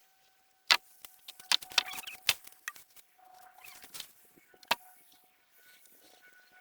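A dozen or so sharp, irregular knocks and clicks with a faint steady high tone behind them.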